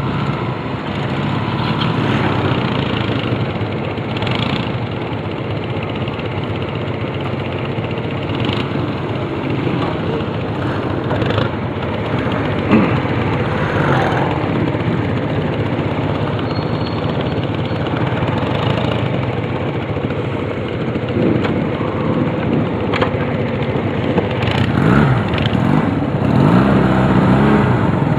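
Honda CD175 motorcycle's small twin-cylinder four-stroke engine running steadily, its pitch rising and falling several times in the second half and getting louder near the end.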